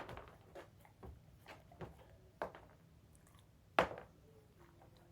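Dog treats being dropped around a dog crate, landing in a string of light taps and knocks about every half second, with one louder knock a little before the four-second mark.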